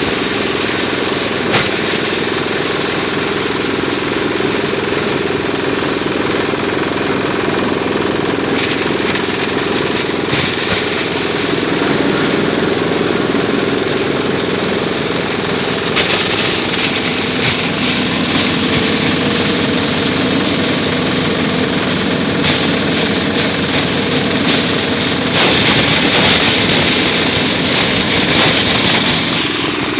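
Diesel engine running steadily, driving a chaff cutter, a dense mechanical clatter that grows louder and harsher for a few seconds near the end.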